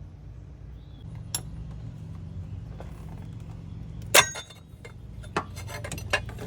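Metal clicks, clinks and a sharp knock from hand tools and engine parts as the water pump is worked off the engine, with a steady low hum underneath.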